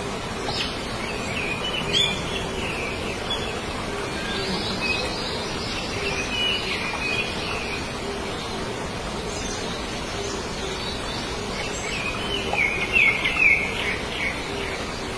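Small birds chirping in clusters of quick high calls, loudest near the end, over a steady noisy background with a faint low tone that pulses about once a second.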